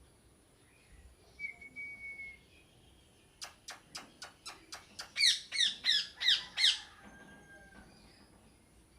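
A parrot calling: a quick run of sharp clicks, then five loud harsh squawks about three a second, each falling in pitch. A faint short whistle comes about a second and a half in.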